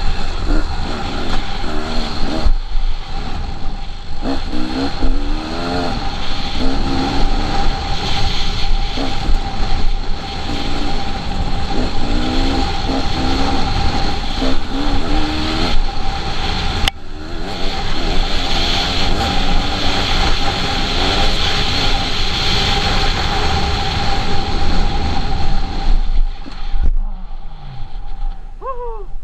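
KTM 300 two-stroke dirt bike engine being ridden hard, its revs rising and falling over and over as the throttle is worked. Near the end it drops off to a lower level with a falling pitch as the bike slows.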